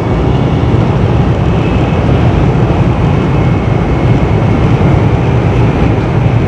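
Interior running noise of an N700 series Shinkansen car at speed: a steady, loud rumble and rush from the wheels and the air, heaviest in the deep range.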